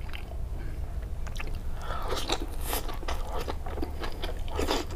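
A person chewing and biting into a mouthful of boiled spinach leaves close to the microphone: wet mouth clicks and crackles that grow denser from about two seconds in.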